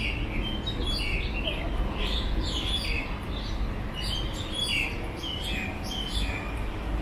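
Birds chirping and calling in quick, short notes that slide up and down in pitch, many overlapping, over a steady low street rumble.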